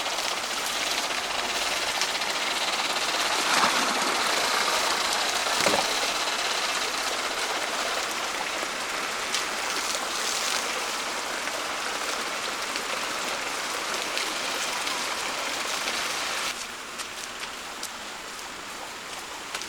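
Steady rushing hiss of running water, with a few faint clicks; the level drops suddenly near the end.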